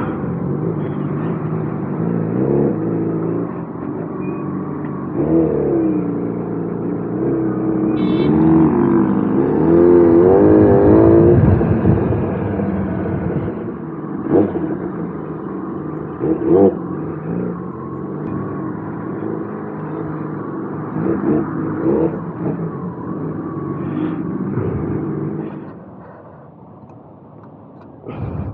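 Kawasaki ZX-10R's inline-four engine running in traffic, its pitch rising and falling with the throttle, loudest in the revving between about five and twelve seconds in, then dropping off near the end.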